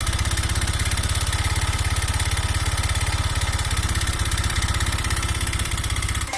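Honda Vario 125 scooter's single-cylinder fuel-injected engine idling with a steady, even pulse. The engine runs rough, which the uploader puts down to a worn piston gone loose in the cylinder, with weak compression.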